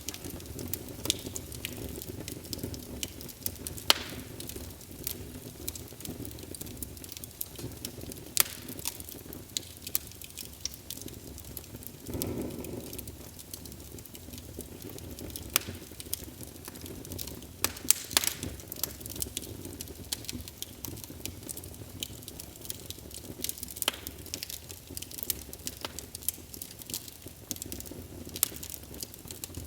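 Wood fire burning in a fireplace: a steady low rumble of flames with frequent irregular sharp crackles and pops. About twelve seconds in there is a brief louder whoosh.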